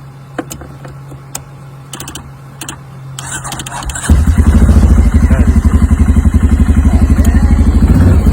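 CFMOTO 500's single-cylinder engine catching about four seconds in after a short crank, then running at idle with a fast, even pulse. The no-start was traced to a missing ground wire.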